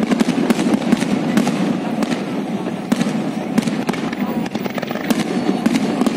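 Aerial fireworks display: shells bursting in a rapid, irregular run of bangs and crackles.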